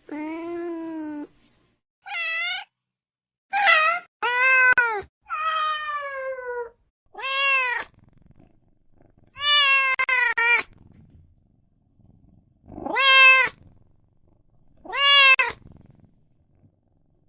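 Domestic cat meowing: about nine separate meows in a row, some short and high, others longer and lower, with short pauses between them.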